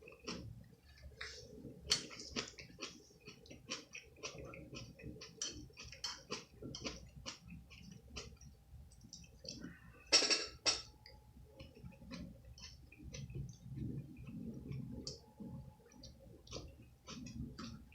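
A person chewing food close to the microphone: a steady stream of small wet mouth clicks and crunches. About ten seconds in there is a louder brief clatter.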